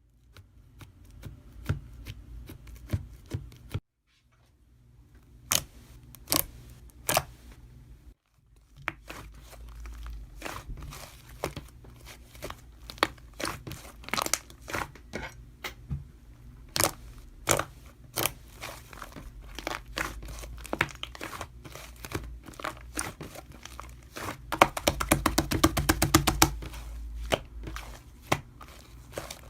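Close-up handling of a crinkly material, with crinkling and tearing sounds and many sharp taps and clicks. Near the end comes a dense, rapid run of ticks lasting about two seconds.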